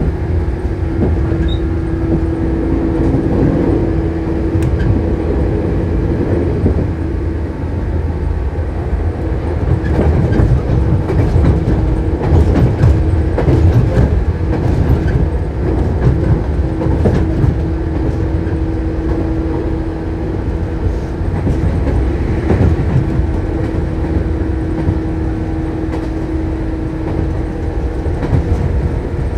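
Shinano Railway 115 series electric train running, heard from inside the passenger car: a steady low rumble with a hum holding one pitch that fades out for a while and comes back. Occasional clicks and knocks, mostly in the middle, are typical of wheels passing over rail joints.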